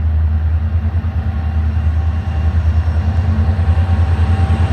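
Approaching diesel locomotive's low engine rumble, growing louder about halfway through.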